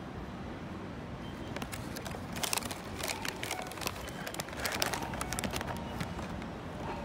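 Shin-Keisei 8800-series electric train pulling out of the station, a steady rumble with a quick run of clacks as its wheels cross the rail joints, loudest in the middle.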